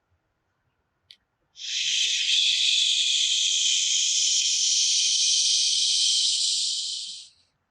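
A long, steady "shhh" breathed out for about six seconds: the Taoist healing sound for the liver, exhaled slowly to purge tension.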